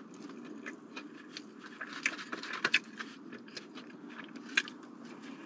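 Eating sounds: chewing a breaded fried chicken tender and handling it in a foam takeout box, with scattered small clicks and crackles and a few louder ones over a steady low hum.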